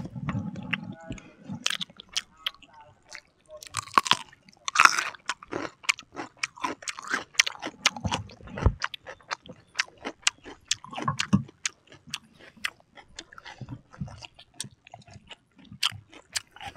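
Close-miked eating sounds: chewing and biting into grilled chicken and raw vegetables, with many sharp, irregular crunches and wet mouth noises.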